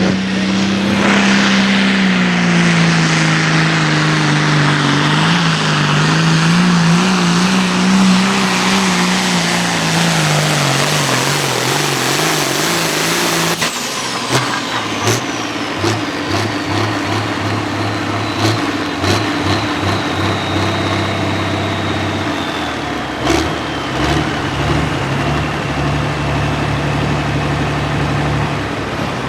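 Turbocharged diesel pulling tractor running hard under full load, its engine pitch rising and falling. About halfway through, the power cuts off abruptly and the engine drops to a lower, uneven idle with scattered knocks, while a high turbocharger whine winds slowly down.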